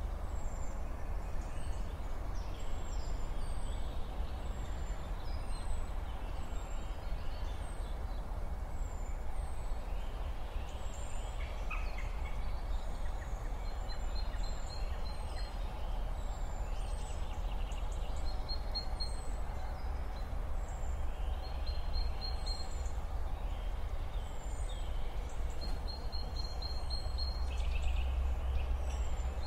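Outdoor ambience of small birds: short, high falling chirps repeat about once a second, with now and then a brief rapid trill, over a steady low rumble.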